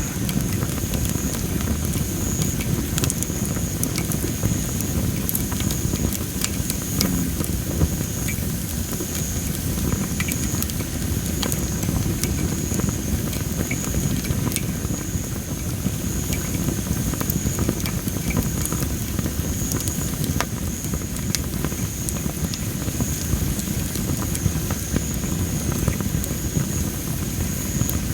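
Well-dried Masaki (Japanese spindle tree) firewood burning in a campfire, crackling with many small scattered pops over a steady low rumble. A steady high-pitched tone runs underneath.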